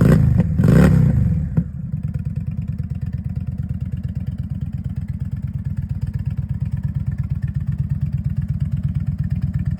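Indian Sport Chief V-twin through an aftermarket Rienhart exhaust, blipped twice with the throttle, then dropping back to a steady, low, pulsing idle about two seconds in.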